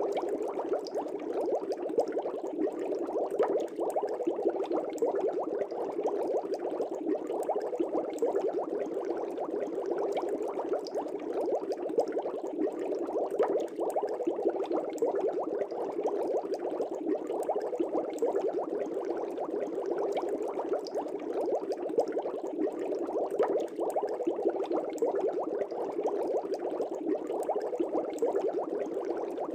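Air bubbles streaming up through an aquarium fish tank's water: a steady, continuous bubbling with many small pops.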